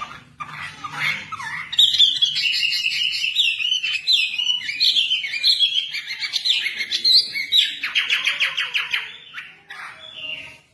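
Wambi bird song: a loud run of rapid, varied chirps and short whistles, with a fast rattling trill about eight seconds in.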